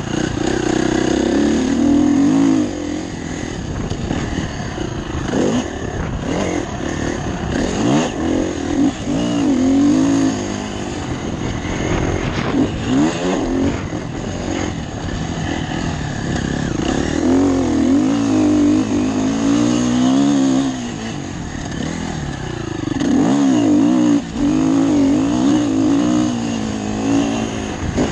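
Motocross bike engine heard through a helmet-mounted camera, revving up and dropping back again and again, its pitch rising and falling every few seconds.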